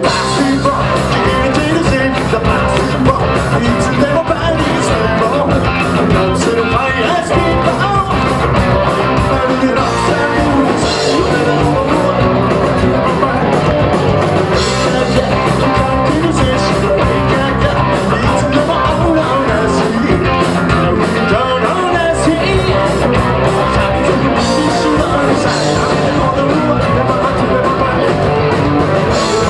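Rock band playing live at full volume: electric guitars, bass and driving drums, with a singer.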